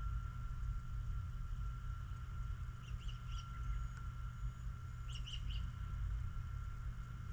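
A small bird chirping in two short bursts of three or four quick high notes, about three and five seconds in, over a steady low rumble.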